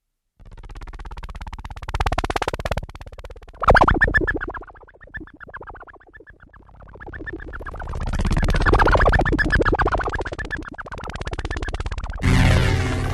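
Electronic synthesizer music: sweeping, whooshing synth tones that swell and fade, starting out of silence about half a second in, with a louder sustained chord entering near the end.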